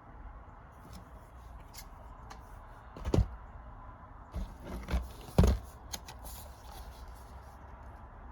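Disc cases and packaging being handled: rustling with light clicks, and four knocks as plastic cases are set down or bumped together, the loudest a little past three seconds and about five and a half seconds in.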